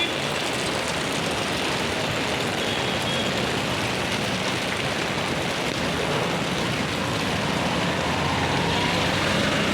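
Steady rain with road traffic noise, a vehicle engine droning low and growing slightly louder near the end.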